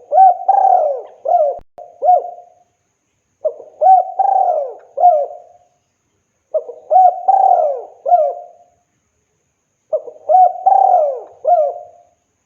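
Spotted dove (tekukur) cooing: four phrases about three seconds apart, each a run of several rising-and-falling coo notes.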